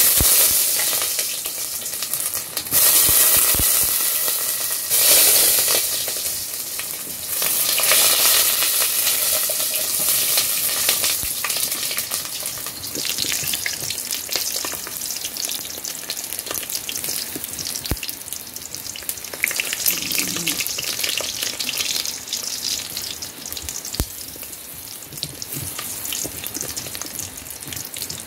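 Sausages frying in hot fat in an aluminium pot: a loud sizzle bursts up as the first goes in, surges again about three, five and seven seconds in as more are dropped in, then settles into a steadier sizzle that slowly eases while they are turned with wooden chopsticks.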